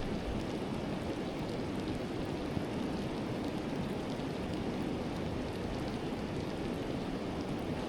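River water running steadily, an even wash of water sound with faint scattered ticks and splashes.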